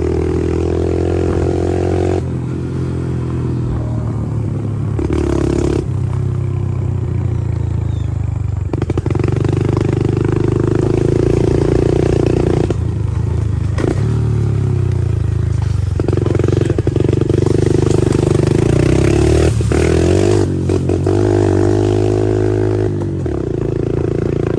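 Pit bike engine running hard, its revs rising and falling repeatedly, with several brief drops in pitch.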